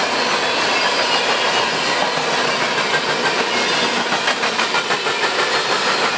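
Covered hopper cars of a grain train rolling past close by: a steady rumble and rattle of steel wheels on rail, with a run of quick wheel clicks over rail joints about four to five seconds in.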